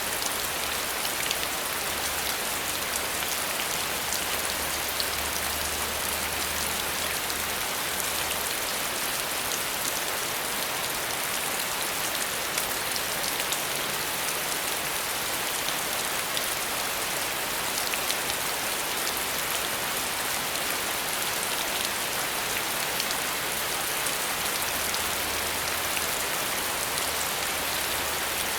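Steady rain falling: an even hiss with a dense patter of individual drops.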